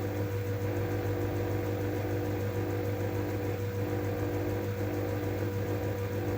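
LG F12A8ND front-loading washing machine running with a steady mechanical hum and a faint whine over it.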